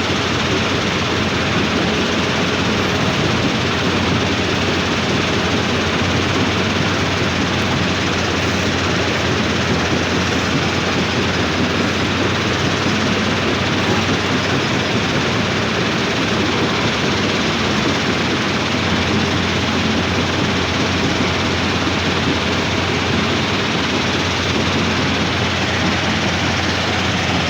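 Heavy diesel engine of earth-moving machinery running steadily at constant revs, a loud, even noise with a low steady hum underneath.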